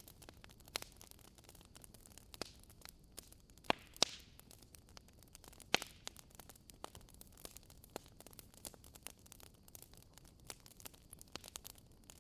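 Wood fire crackling in a fireplace: irregular sharp pops and snaps over a faint steady hiss, with a few louder pops about four seconds in and another near six seconds.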